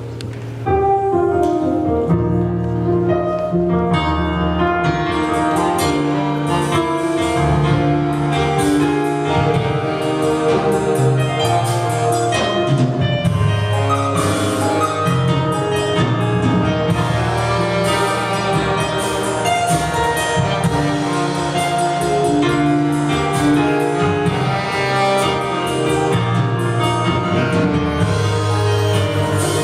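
A church worship band playing instrumental music with a drum kit and keyboard, starting in full about a second in.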